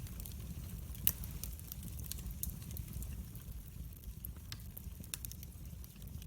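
Wood fire burning in a fireplace: a steady low rumble of flames with frequent sharp crackles and pops, one louder pop about a second in.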